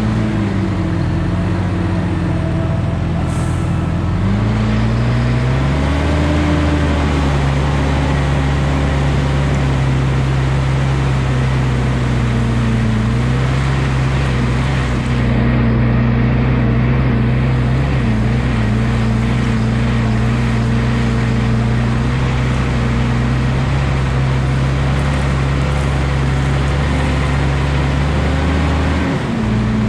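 Valtra T234 Direct tractor's six-cylinder diesel engine running under load. Its revs sag in the first few seconds, pick back up about six seconds in, then hold steady until a brief dip near the end.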